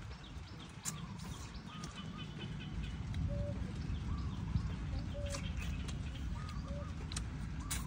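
Mouth sounds of eating grilled eel: chewing with a few sharp smacks, over a steady low rumble. Short calls of poultry repeat in the background.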